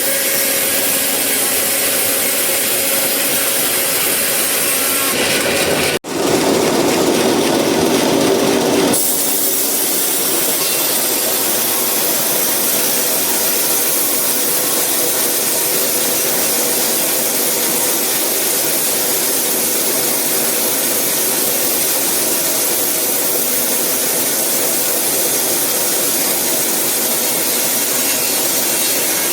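Sawmill saw cutting through eucalyptus wood, a steady, loud, rasping run of blade through timber. About six seconds in it cuts off for an instant and comes back louder for about three seconds before settling again.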